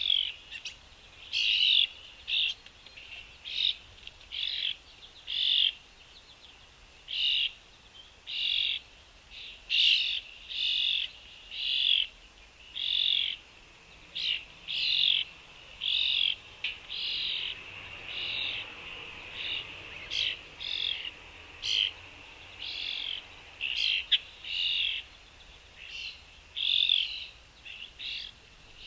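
Short bird chirps repeated over and over, about one a second, with a few faint clicks mixed in.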